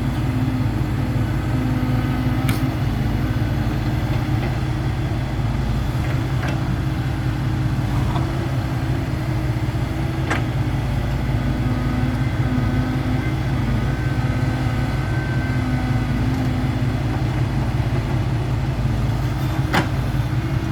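Truck diesel engine running steadily at an even idle, with a few faint clicks over it.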